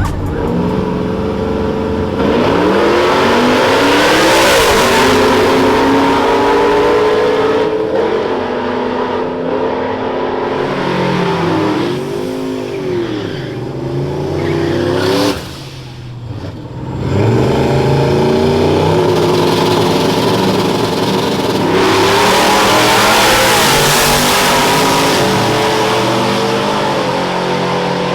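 Boosted drag-racing engines revving and accelerating hard, the pitch climbing and falling. There are two long loud runs, one early and one late, with a short lull just past the middle.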